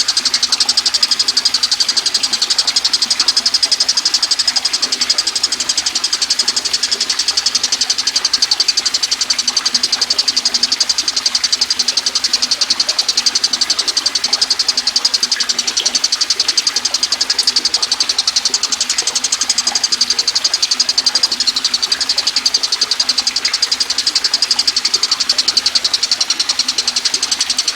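Tengkek buto kingfisher giving a continuous, very fast, high-pitched rattling trill.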